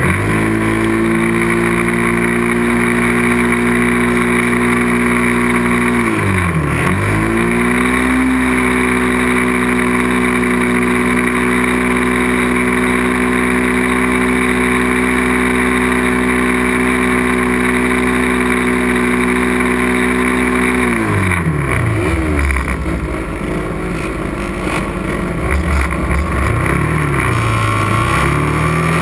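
Racing motorcycle engine run hard: its pitch climbs and holds high, dips sharply and climbs again about six seconds in, holds steady high until about twenty-one seconds, then falls and rises and falls again near the end.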